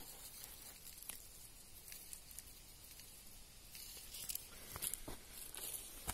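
Faint rustling with scattered small crackles and snaps of leaves and twigs in forest undergrowth, busier in the second half.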